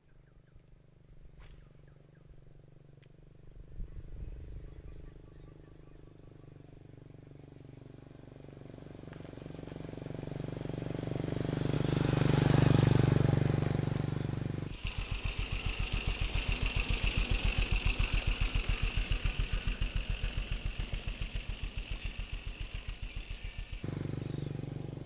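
Motorcycle engine passing close by, growing louder to a peak about halfway through. It is followed by a steady, rapid pulsing engine sound lasting several seconds.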